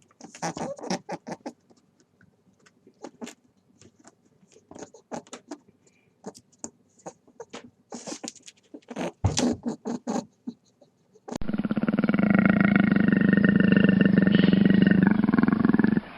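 Scattered soft clicks and taps for about eleven seconds. Then an animal's loud, continuous call starts abruptly, holds a steady pitch for about five seconds and cuts off just before the end.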